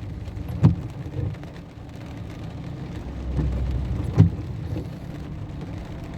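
Car moving slowly in heavy rain, heard from inside: steady rain and road noise with a low engine rumble, and two sharp thumps, about a second in and again about three and a half seconds later.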